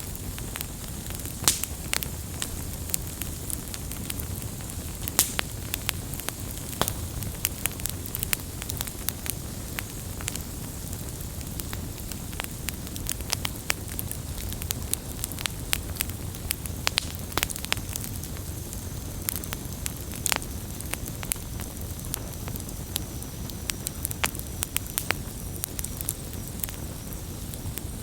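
Wood campfire burning and crackling, with frequent sharp irregular pops over a steady low rumble of flame.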